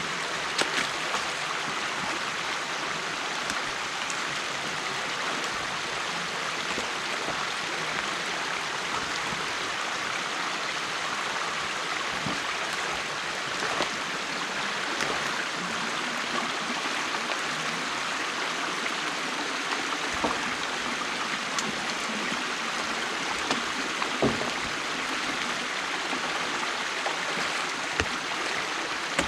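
Water rushing steadily through a breach in a beaver dam, with a few scattered faint knocks.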